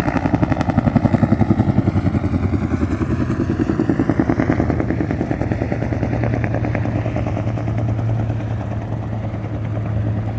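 Bell UH-1 Huey helicopter with its two-bladed main rotor beating in a fast, even rhythm over the turbine's running noise. In the second half the blade beat softens while a steady low hum comes up.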